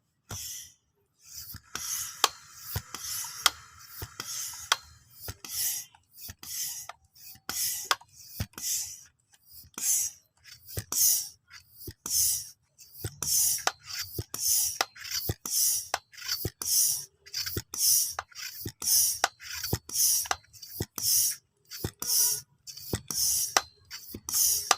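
Hand air pump being worked, a steady run of short hissing strokes at about two a second with a click at each stroke, charging the airgun with air.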